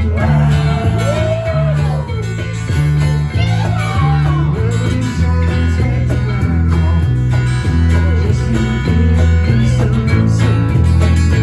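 Country-rock band playing an instrumental break: a guitar lead with bending notes in the first few seconds over a steady, stepping bass line.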